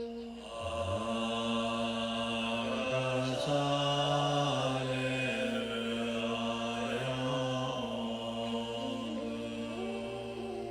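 Mantra chanting: slow, long-held sung notes stepping between pitches over a low, sustained droning tone.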